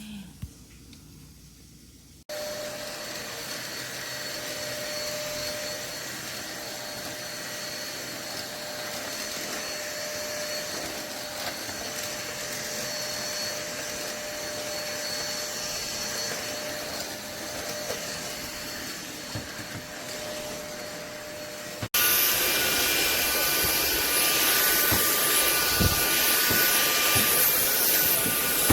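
SMOTURE cordless stick vacuum running steadily with a faint whine, starting about two seconds in. About twenty seconds later it jumps abruptly to a louder run with a higher-pitched whine.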